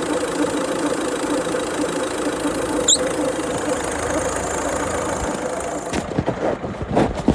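Car engine idling with a weird noise that remains after the accessory belt, pulleys and tensioner were stripped down and found to look fine; a brief sharp high-pitched chirp sounds about three seconds in. About six seconds in the steady running sound breaks off into a few separate knocks.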